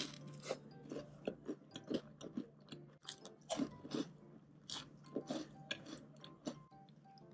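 Close chewing and crunching of air-fried toast eaten with shakshouka: a string of short, crisp crunches at an uneven pace.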